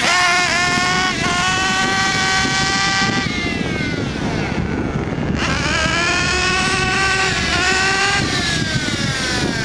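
Kyosho Inferno MP9 TKI3 1/8-scale nitro buggy's glow engine running at high revs during its first tuning run after break-in. Its pitch holds high, falls away for about two seconds, climbs and holds again, then falls once more near the end.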